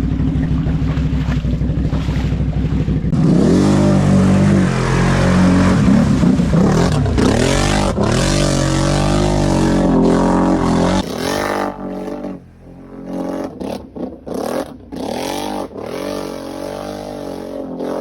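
Off-road vehicle engine running close by, steady at first, then revving up and down repeatedly as it is ridden, and in the last few seconds coming in short throttle bursts with drops in between.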